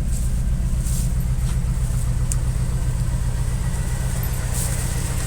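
1999 Chevy pickup's engine idling steadily with an even low pulse, shortly after starting.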